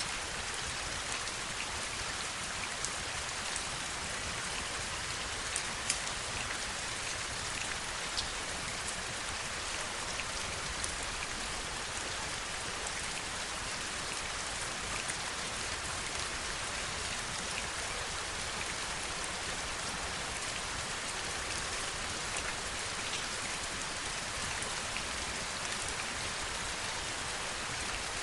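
Steady heavy rain, an even hiss with scattered sharper drop ticks landing close by.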